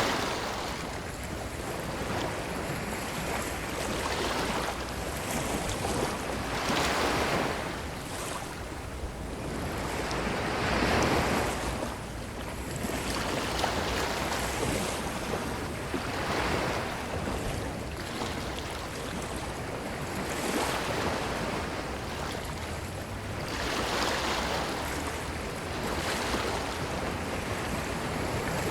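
Ocean waves washing onto a beach, a continuous surf hiss that swells as each wave breaks every three to four seconds, with some wind on the microphone.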